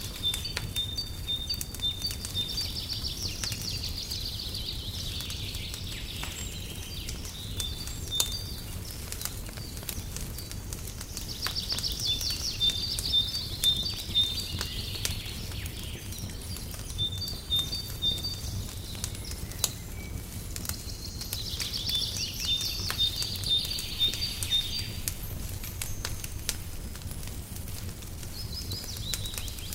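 Wood fire crackling with scattered pops over a steady low rumble, while a songbird sings bouts of quick repeated high notes and trills, three or four times over the stretch.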